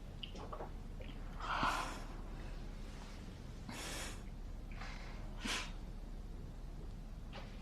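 A person breathing audibly, several short breaths or sighs a couple of seconds apart, at a quiet level.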